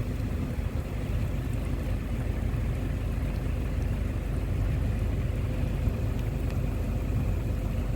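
Steady low rumble of a vehicle driving, engine and road noise with a faint constant hum above it.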